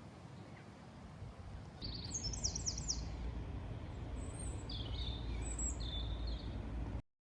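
Birds chirping over a low steady rumble: a quick run of falling chirps about two seconds in, then a few more calls, before the sound cuts off abruptly near the end.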